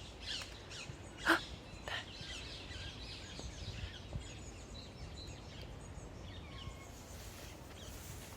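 Wild birds chirping and calling, with a low rumble underneath and a sharp knock about a second in.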